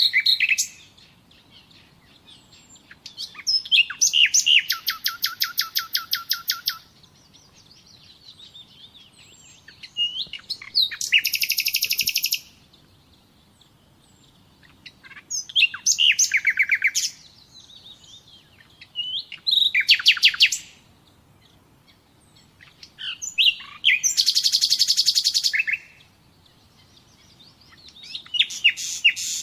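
A songbird singing a string of short phrases, each ending in a fast trill, about every four seconds with brief pauses between.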